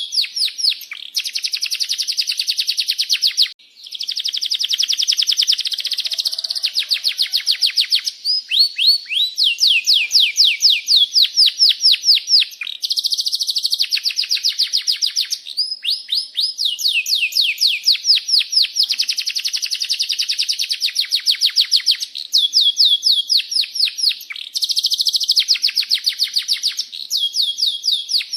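Domestic canary singing long, rolling trills: rapid series of high, down-sweeping notes strung into phrase after phrase, with only brief breaks between them.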